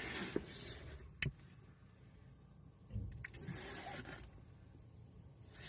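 Two sharp clicks about two seconds apart, with a faint rustle between them, over a quiet background.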